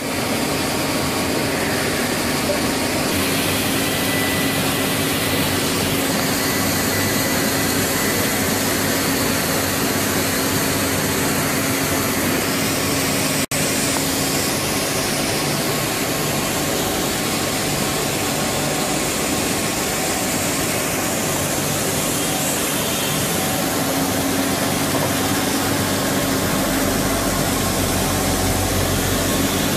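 Large CNC lathe (Mazak Integrex 70Y/3000) running: a steady machine hum over a hiss, with a steadier tone coming and going and a deeper rumble joining near the end. The sound cuts out for an instant about 13 seconds in.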